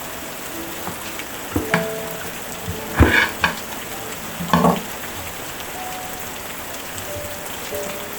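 Steady rain falling, with a few knocks and clatters in the middle, the loudest about three seconds in and another about a second and a half later.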